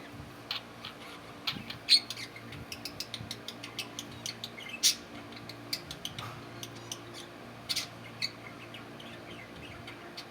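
Pet budgerigars chirping in short, scattered calls, with two louder, sharper chirps about two and five seconds in. A faint steady hum sits underneath.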